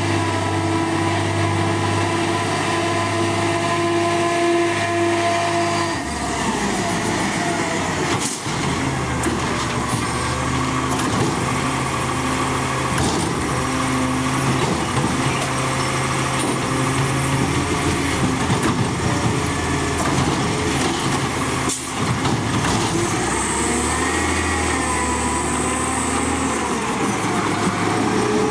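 Garbage truck's diesel engine running, with steady whining tones that change to a lower, rougher sound about six seconds in.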